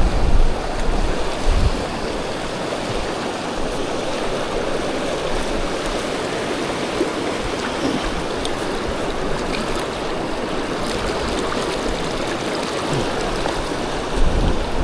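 River water rushing steadily, with gusts of wind buffeting the microphone at the start and again near the end.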